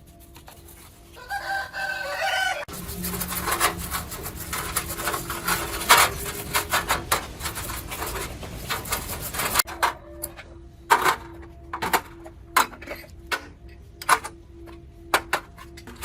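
A rooster crows once about a second in. Then comes continuous scraping and rubbing of hand work, which about ten seconds in turns into separate, irregular sharp strokes.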